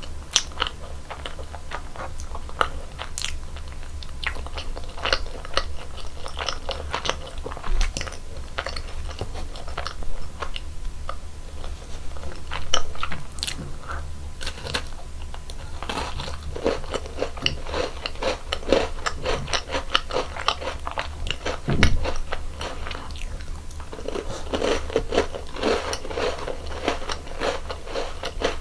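Close-miked eating of cream-filled donuts: repeated bites and chewing with crisp, crackly crunches, over a steady low hum.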